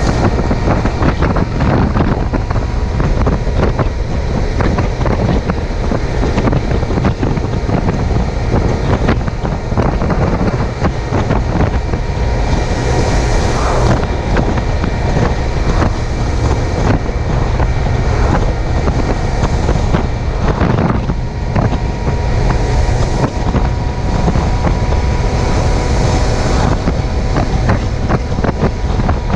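Wind buffeting a chest-mounted camera's microphone at riding speed, over the steady running of a Suzuki GSX750F's inline-four engine.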